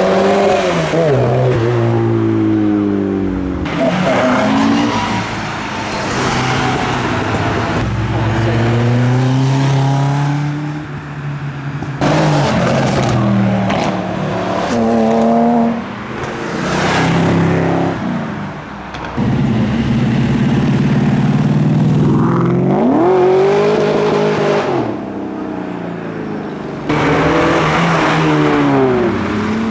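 Car engines accelerating away one after another, each revving up, dropping pitch at a gear change and climbing again as it pulls off.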